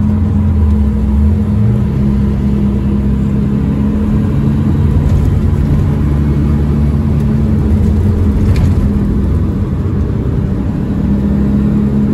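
Engine and road noise of a 1965 Saab Monte Carlo 850, fitted with a non-original engine, heard from inside the cabin while driving. The engine note steps up in pitch about two seconds in, holds steady, and dips briefly near the end.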